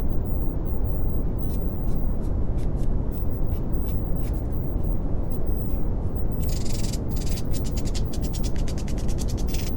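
Steady brown noise: an even, deep rushing hiss that is heaviest in the bass. Faint high clicks flicker over it from about a second and a half in, thickening into a rapid crackle near the end.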